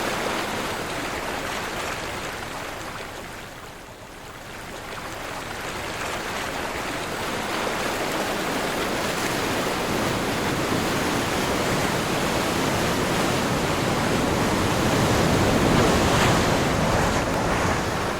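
Ocean surf with wind: a wave recedes and goes quieter about four seconds in, then the rush of water builds again to its loudest near the end as the next waves break.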